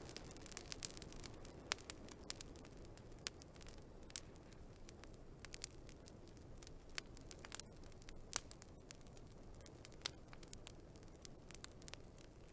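Wood fire crackling: irregular sharp pops and snaps, some loud, over a low steady hiss of burning.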